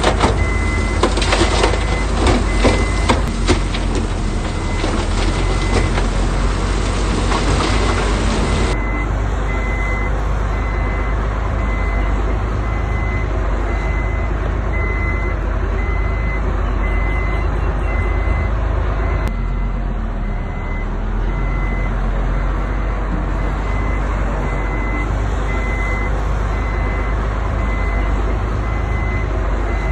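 Large stones crashing and clattering as a load of rock is dumped, over a heavy diesel engine running steadily, with a reversing alarm beeping at a regular pace throughout. The rock noise stops abruptly about nine seconds in, leaving the engine and the beeps.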